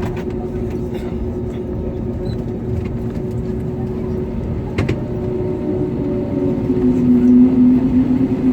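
Airbus A320neo engines heard inside the passenger cabin: a steady hum with several held tones, growing louder from about six seconds in, with a single sharp click just before the midpoint.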